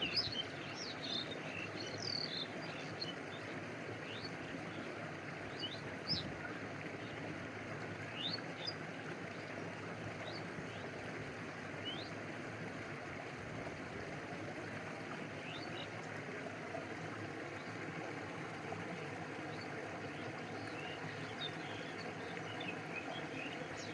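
Stream water flowing with a steady rush, with scattered short, high bird chirps over it, more of them near the start and near the end.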